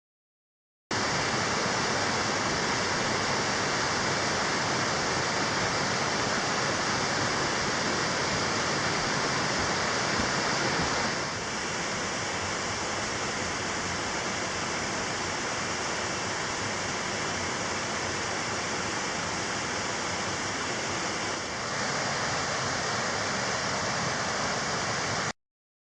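Water rushing steadily over the cascades of a mountain stream, a dense, even rush with no break. It drops slightly in level about eleven seconds in, comes back up near twenty-two seconds, and cuts off suddenly near the end.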